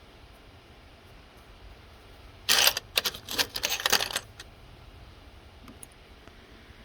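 A short clatter of hard objects knocking together, a rapid irregular run of clicks and knocks lasting under two seconds, about halfway through.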